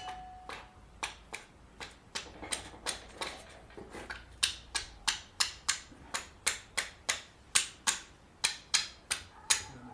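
A run of sharp clicks or taps, about three a second, faint at first and louder and steadier from about four seconds in.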